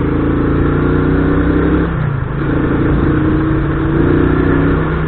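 Small motorcycle engine running steadily while being ridden, easing briefly about two seconds in.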